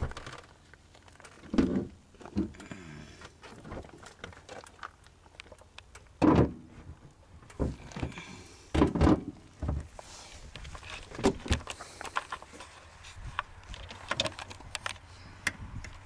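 Scattered thunks and clunks of handling around a car's rear engine compartment, with a few louder knocks about one and a half, six and nine seconds in.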